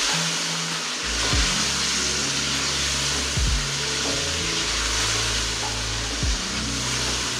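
Chicken frying in oil and a little water in an aluminium pot, with a steady sizzling hiss, while a wooden spoon stirs it and knocks against the pot a couple of times. Soft background music with low held notes comes in about a second in.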